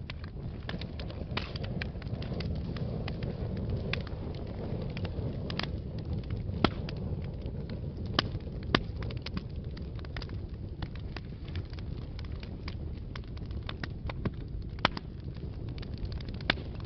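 Wood fire burning in a fireplace: a steady low rumble of flames with irregular crackles and sharp pops, a few louder pops about two thirds of the way through.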